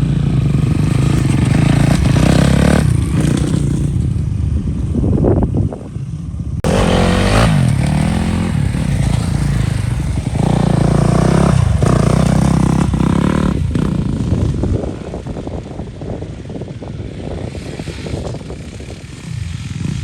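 A hand tractor's diesel engine running under way, its speed rising and falling, with some clatter.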